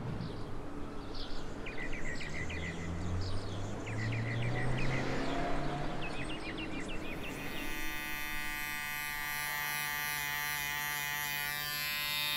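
Street noise with a low rumble of traffic and small birds chirping in short runs. About seven and a half seconds in, this gives way to electric hair clippers buzzing steadily while cutting thick hair.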